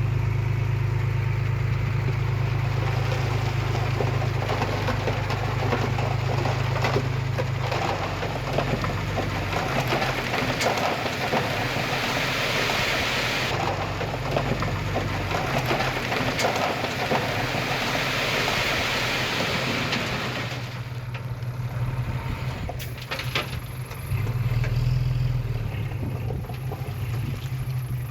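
Heavy diesel engine running steadily, with a broad rushing, gritty noise of soil pouring out that swells over the middle stretch and falls away about two-thirds of the way through.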